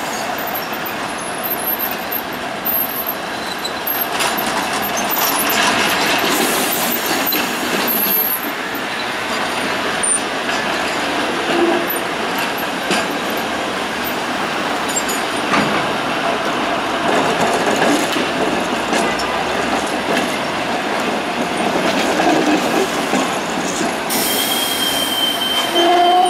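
Vintage Be 4/4 tram motor car and its trailer running on rail: a steady rolling and rattling noise with faint wheel squeal, and a thin high squeal near the end.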